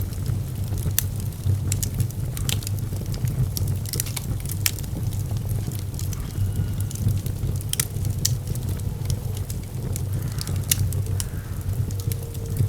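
Wood fire burning in a fireplace: frequent sharp, irregular crackles and pops over a steady low rumble.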